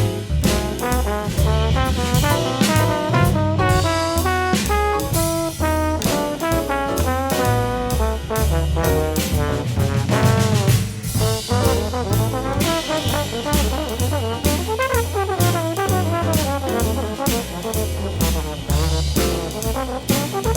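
Jazz big band playing, with the brass section carrying moving ensemble lines over bass and drum kit.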